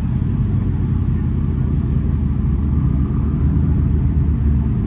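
A car's engine running: a steady low rumble.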